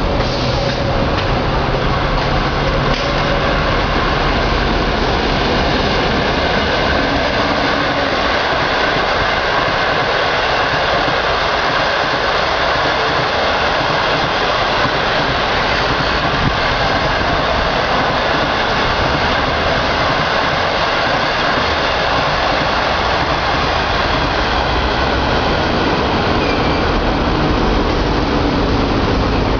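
Long-distance passenger train passing, its carriage wheels running on the rails in a steady, continuous rush of noise.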